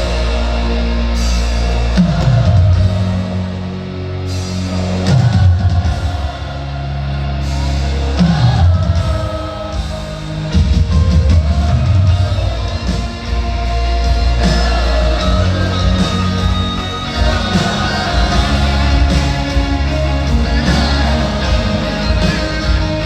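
Live pop-rock concert music from a band, with drums, a heavy sustained bass line and singing.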